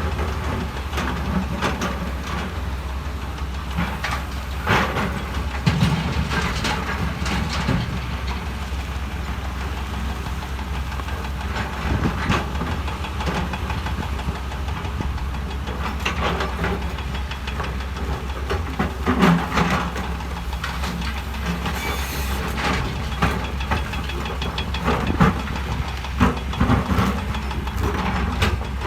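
Heavy diesel earthmoving machinery running with a steady low drone, with irregular clanks and knocks of metal and rock on top.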